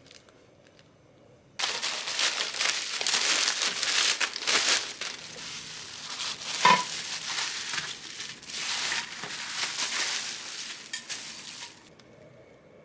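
Loud crinkling and crackling, like something crinkly being handled or crumpled. It starts abruptly about a second and a half in and cuts off about twelve seconds in.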